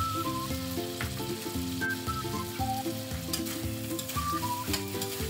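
Pork spare ribs sizzling in a hot steel wok as lemon sauce hits the pan and the ribs are stirred, with a few light clicks of the utensil against the wok from about three seconds in. An instrumental melody plays underneath.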